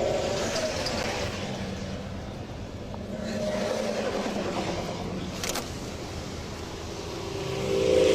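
Road traffic going past, swelling and fading as vehicles pass, with a sharp click about five and a half seconds in.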